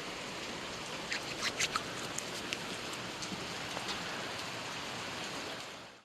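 Steady rain falling, an even hiss, with a handful of sharp drip-like ticks a second or two in, then fading out at the end.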